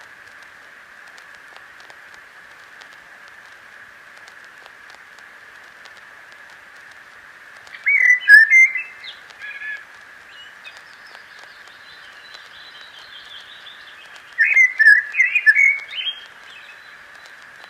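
Two short bursts of bird-like chirping and trilling, one near the middle and one near the end, over a steady hiss.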